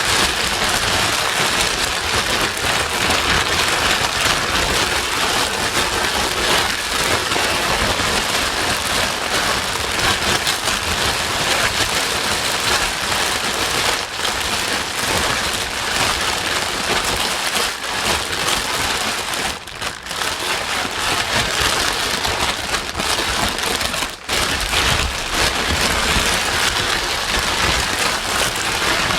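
White noise for soothing a crying baby: a loud, steady, rain-like hiss that dips briefly twice in the second half.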